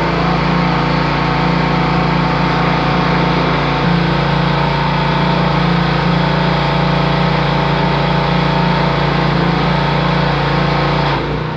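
A motor running steadily in a constant mechanical hum; its level steps down shortly before the end.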